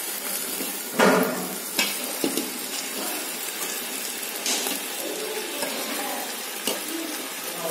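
Tomato-and-spice masala sizzling steadily in a metal pot as raw chicken pieces are dropped in, with a loud splat about a second in and a few lighter knocks after.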